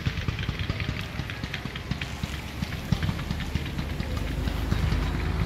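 Aerial fireworks crackling: a dense, fast run of small pops, over a low rumble that swells near the end.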